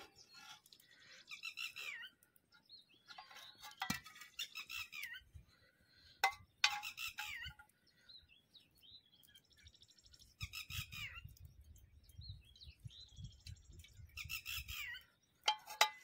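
Birds chirping faintly in short bursts every few seconds, with a couple of sharp clicks about four and six seconds in.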